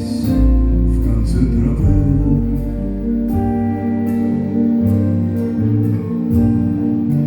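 A live band plays an instrumental passage: sustained chords over a moving bass line, with cymbal strikes about every half second or so.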